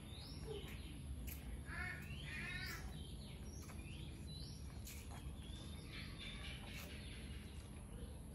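Birds chirping faintly: several short calls over a steady low hum, with a few faint clicks.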